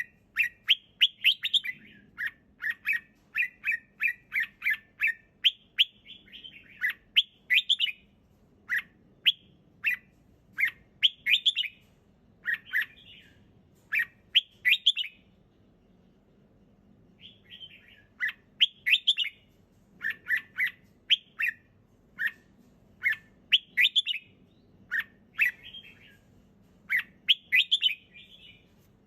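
Red-whiskered bulbul singing in short, clear whistled phrases, about one a second, with a pause of about two seconds just past the middle.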